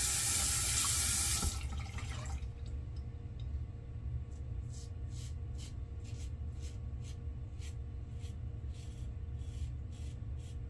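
A faucet running into the sink, shut off about a second and a half in. Then short scratchy razor strokes across lathered stubble, about two a second, for a quick cleanup pass.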